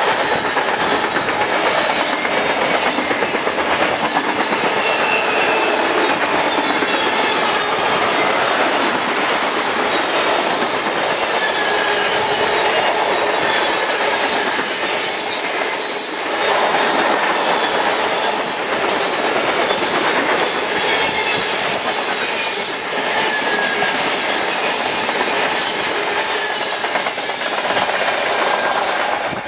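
Freight cars rolling past close by: steel wheels clatter over the rails, with short high-pitched squeals from wheel flanges on the curve. The noise starts to fall away at the very end as the last car passes.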